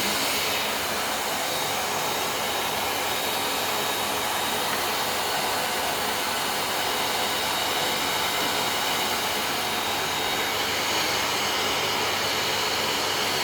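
Vacuum cleaner motor running steadily and blowing out a strong stream of air: an even rushing noise with a thin, steady high whine.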